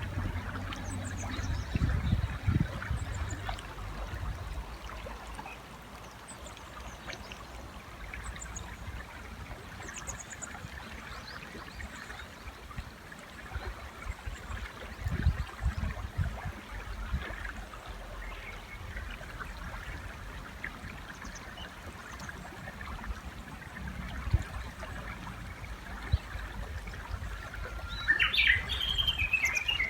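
River flowing steadily, with faint high chirps from small birds. Near the end a Japanese bush warbler sings loudly: a short steady note, a quick rise, then a rapid run of repeated notes.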